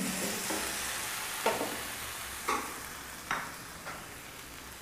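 Thick tomato gravy sizzling in a kadai and slowly dying down, the gas flame just turned off. A few light knocks come about a second and a half in and again later.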